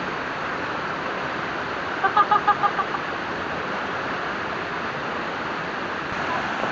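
Waterfall rushing steadily. About two seconds in there is a quick run of about six short pitched calls.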